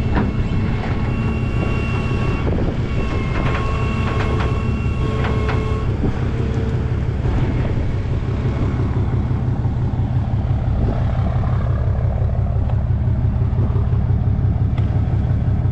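Tow truck engine running steadily with a low rumble. For about the first seven seconds a whine comes and goes in stretches of one to three seconds, as the truck's hydraulic wheel lift is worked.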